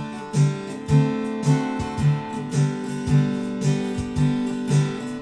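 Acoustic guitar strumming a steady country-gospel intro, about two strums a second with the bass notes keeping time.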